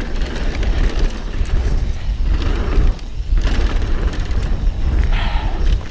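Mountain bike descending a rough trail: tyres over dirt and rock and the rattle of the bike, under heavy wind rumble on the helmet-mounted camera's microphone, with a brief hiss about five seconds in.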